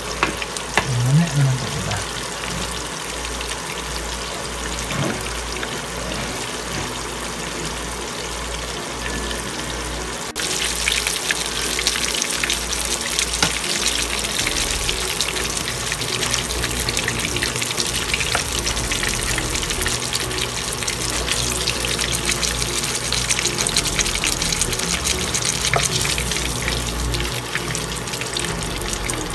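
Cream dory fillets coated in cornstarch sizzling steadily in hot garlic butter and oil in a frying pan, with the metal tongs clicking now and then as the pieces are turned and lifted out. The sizzle jumps louder suddenly about ten seconds in.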